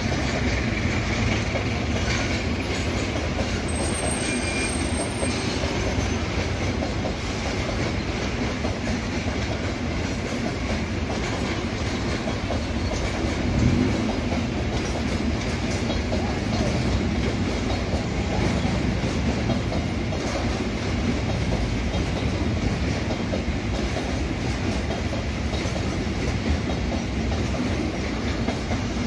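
Container freight train rolling steadily past: the continuous noise of its flatcars' wheels on the rails, with a short louder knock about halfway through.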